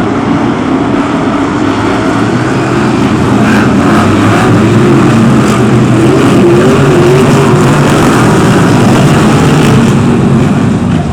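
Several BriSCA F1 stock cars racing, their V8 engines running hard with wavering revs, getting louder about three seconds in as the cars come past.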